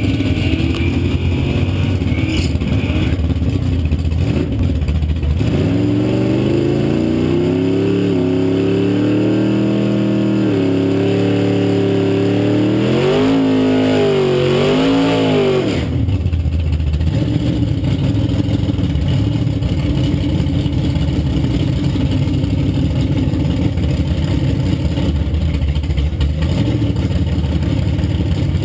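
Car engines idling steadily at a drag strip. About five seconds in, an engine revs up and is held at high revs with stepping, then wavering pitch, before dropping back to idle about sixteen seconds in.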